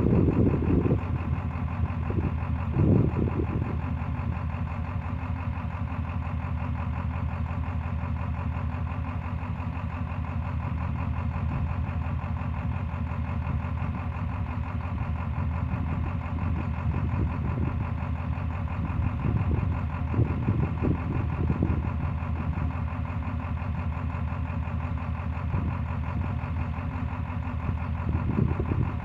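Ford 7.3 L Power Stroke V8 turbo-diesel running steadily, most likely at idle, with a few brief rougher surges about three seconds in, around twenty seconds in and near the end. The engine is one its owner reports as misfiring.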